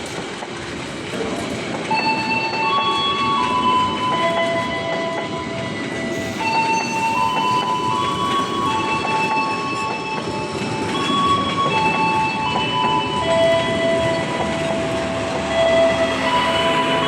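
A train running on rails with a rumble of wheels, overlaid by several steady high squealing tones that shift in pitch every second or two.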